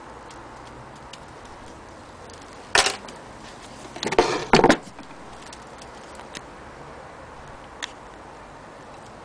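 Mechanical clicks and knocks from an antique Singer 12K sewing machine being handled: scattered light clicks, one sharp knock about three seconds in, and a quick run of louder knocks just past four seconds.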